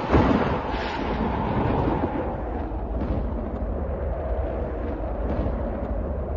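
Thunder rolling: a burst just after the start, then a steady low rumble under a haze of storm noise.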